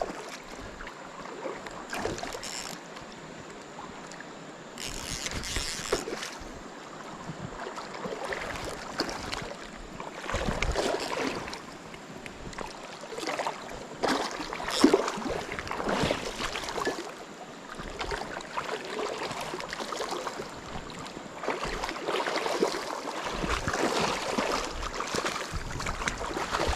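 River water splashing and sloshing unevenly around a wading angler while a hooked smallmouth bass is fought to hand, with louder splashes about ten and fifteen seconds in.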